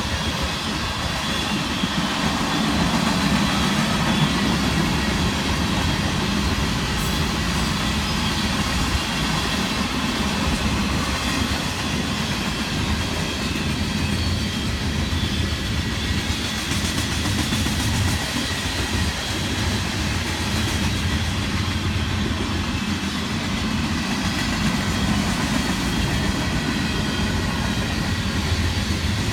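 Train cars rolling along the rails: a steady rumble with wheel clatter.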